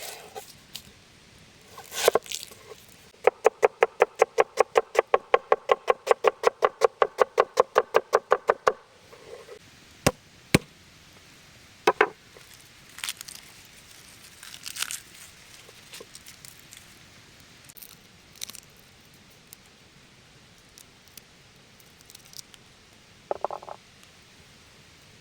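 A fast, even run of knocks, about four a second for five or six seconds, followed by scattered single knocks and clicks.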